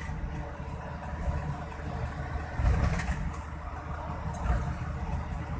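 Scania 580 V8 truck engine, the 16-litre diesel, running steadily at low speed, briefly a little louder about halfway through.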